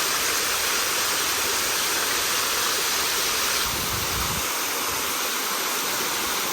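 Steady hiss of falling water, with a brief low rumble about four seconds in.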